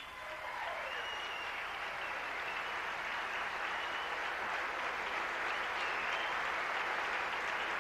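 Audience applauding steadily for a barbershop quartet as it is introduced; the clapping builds over the first second, then holds.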